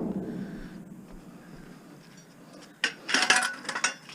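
Quiet handling noise, then a burst of metallic clattering and rattling about three seconds in, followed by a few sharp clicks.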